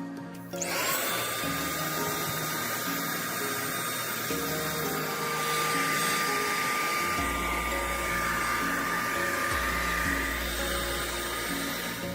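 An electric power tool's motor spins up about half a second in and then runs at a steady, high speed, with a broad hiss.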